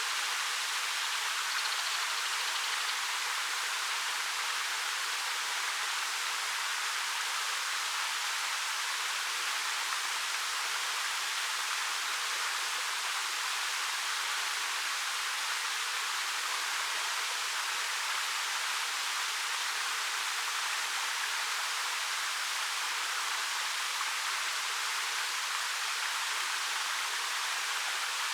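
Steady, even rush of a 13 m waterfall, a constant hiss of falling water with little low rumble.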